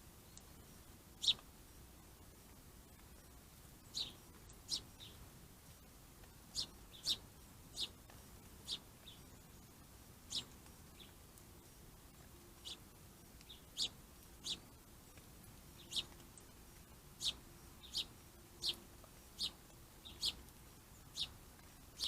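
A small bird giving short, high single chirps, about one a second at uneven spacing.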